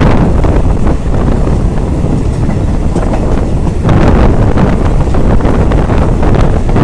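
Rushing wind buffeting the microphone over the rumble of a moving passenger train, swelling a little about four seconds in.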